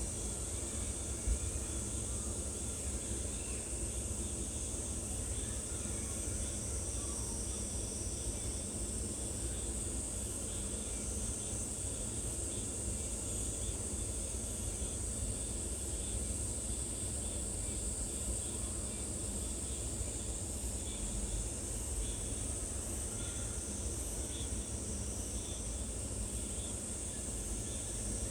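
A steady, high-pitched drone of insects calling in chorus, over a low rumble.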